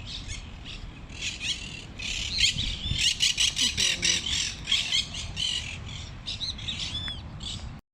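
Birds calling: many short, high chirps and squawks overlapping, busiest from about two to five seconds in. The sound cuts off suddenly near the end.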